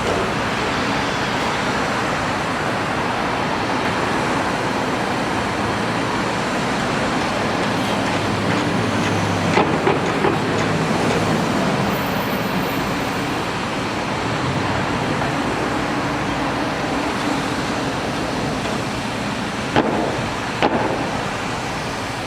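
Steady rush of passing road traffic, with a heavier vehicle's low hum swelling and fading in the middle and a few sharp clicks near the end.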